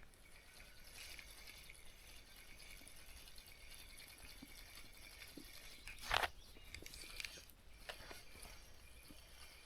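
Quiet lakeside stillness with faint high natural sounds, broken by a single short, sharp knock about six seconds in.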